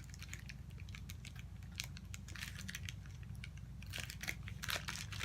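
Wax paper being peeled slowly off the sticky canvas of a diamond painting, crackling in scattered small clicks that grow busier near the end. A steady low hum runs underneath.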